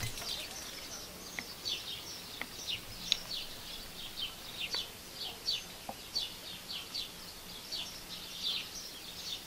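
Small birds chirping: a quick run of short, high, falling chirps, two or three a second, with a few faint clicks between them.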